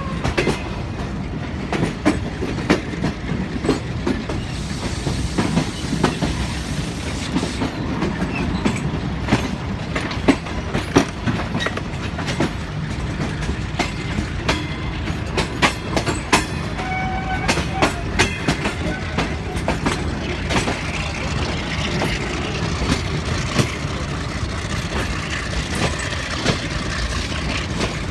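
Railway coaches rolling slowly past at close range: a steady rumble of wheels on rail with a stream of irregular sharp clicks as the wheels cross rail joints.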